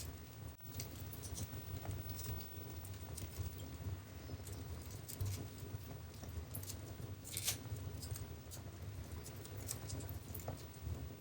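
Wood fire in a fireplace crackling, with irregular sharp pops and snaps over a low steady rumble of flames; one louder pop about seven seconds in.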